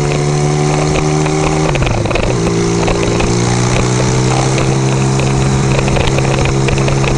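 Motorcycle engine running steadily under way. About two seconds in, its note dips briefly, then settles at a slightly lower pitch.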